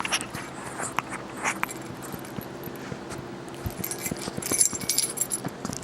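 Light metallic jingling with scattered clicks and taps from a dog at play, with a denser burst of jingling about four and a half seconds in.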